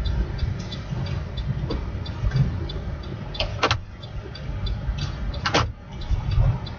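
Motor vehicle running with a steady low rumble and a light, fast, regular ticking. Two short high squeals about three and a half and five and a half seconds in.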